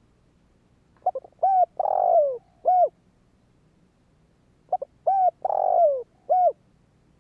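Spotted dove cooing: two identical calling phrases, each a couple of quick short notes, two coos, a longer coo that falls in pitch, and a final short coo.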